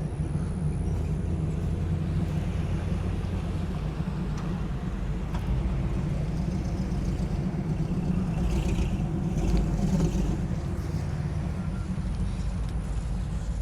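A car engine running, a steady low rumble that grows a little louder about two-thirds of the way through.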